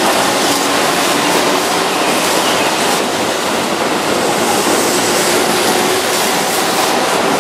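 Keihan 2600 series electric train moving past close by at a platform: a loud, steady rumble of wheels and running gear that holds level throughout.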